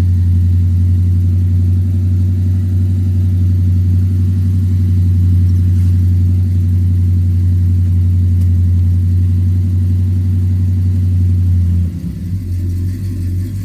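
Old Chevrolet pickup's engine running steadily shortly after a cold start. About twelve seconds in, the engine note drops and turns uneven.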